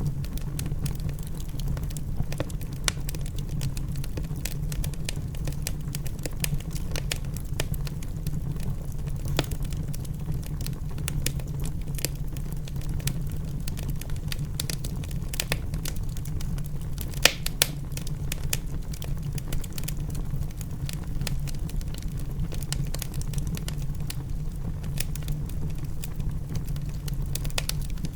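Wood fire crackling in a fireplace: many small pops and snaps over a steady low rumble, with one louder pop about 17 seconds in.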